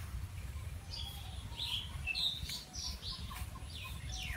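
Small birds chirping, a quick run of short high calls, two or three a second, over a steady low rumble.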